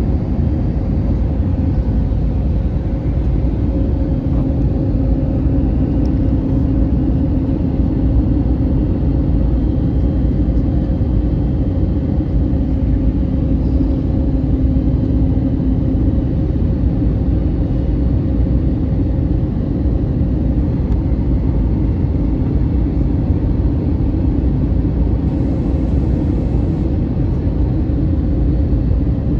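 Steady cabin rumble of an Airbus A321neoLR in flight: engine and airflow noise heard from inside the cabin, with a faint steady hum.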